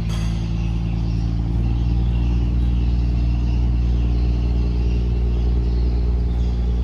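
A fishing boat's engine running steadily at a constant speed, a deep even hum that grows a little louder about a second in.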